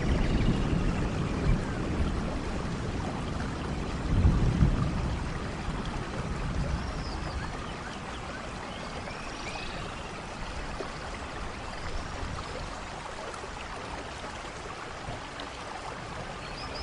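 Steady rainfall, an even hiss, with a low rumble at the start and a louder one about four seconds in, after which the rain settles to a quieter, even sound.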